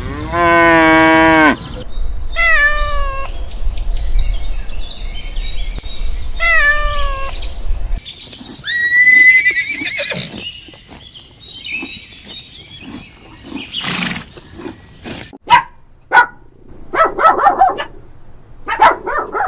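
A run of different animal calls one after another: a long loud call whose pitch drops at the end, two shorter higher calls that each fall in pitch, a whistle-like tone, then a string of short scratchy calls and clicks.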